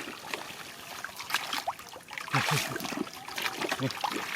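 Shallow water being stirred, trickling and splashing in short irregular splashes.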